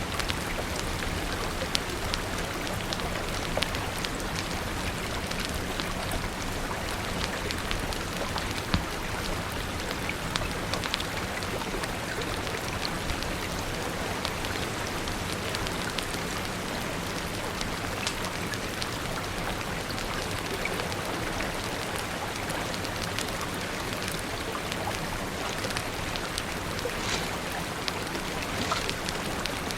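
Steady rain falling, with many small sharp clicks scattered throughout.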